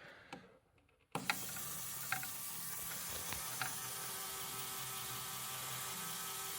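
LEGO Technic Great Ball Contraption module's plastic gear train starting up suddenly about a second in and running steadily, with a few sharp clicks.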